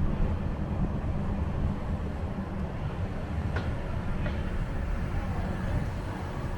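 Steady low rumble of a moving vehicle in transit, with two brief thin high squeaks a little past the middle.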